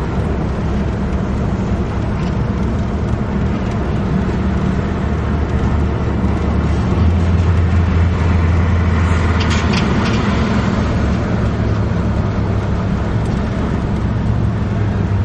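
Steady engine and road noise inside a moving car, with the low engine hum growing stronger in the middle and a few light clicks about ten seconds in.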